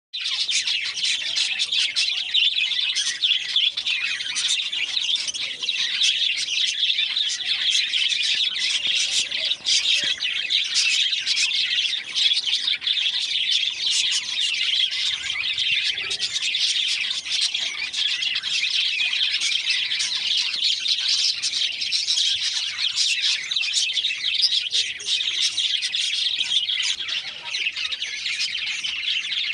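A colony of budgerigars and cockatiels chattering in a breeding cage: a steady, dense mass of many overlapping high chirps and tweets, with occasional squawks.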